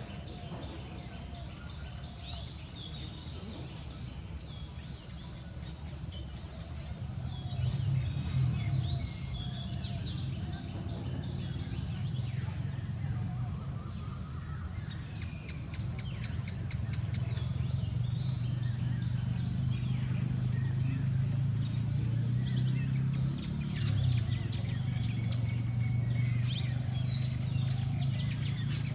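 Several wild birds chirping and calling in short notes over a steady outdoor background, with a high steady hiss and a low steady hum that becomes louder a few seconds in.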